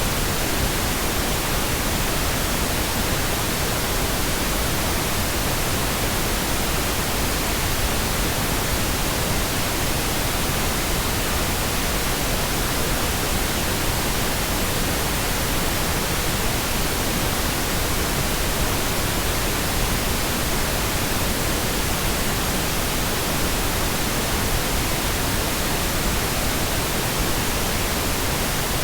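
Steady, unbroken pink noise: an even hiss across all frequencies at a constant level, with no changes.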